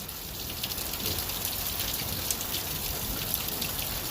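Steady rain falling, with a hiss and many scattered drops pattering on nearby surfaces during a thunderstorm.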